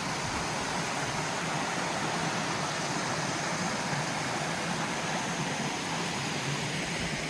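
Steady rush of a mountain waterfall, water cascading over rock.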